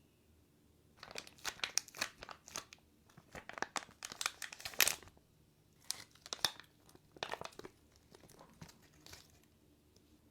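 Plastic toy packaging crinkling and tearing as a surprise capsule's wrappers are pulled open, in irregular clusters of sharp crackles that stop near the end.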